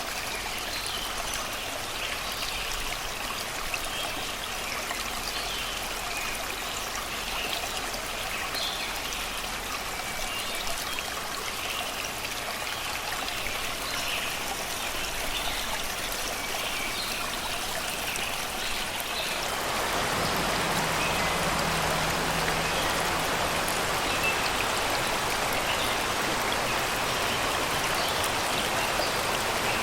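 Shallow river babbling over rocks and stones, a steady rush of water with birds chirping faintly above it. About two-thirds of the way through, the water abruptly becomes louder and fuller.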